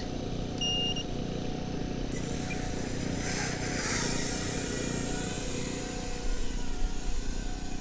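Electric motor and propeller of a Strix radio-controlled model plane running steadily ahead of its launch, a faint whine over a low hum, with a brief rush of air about three seconds in.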